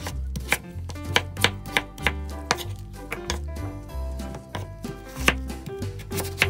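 Chef's knife slicing through a peeled raw potato and striking a bamboo cutting board in repeated, irregular cuts, about two to three a second. Background music with a steady bass runs underneath.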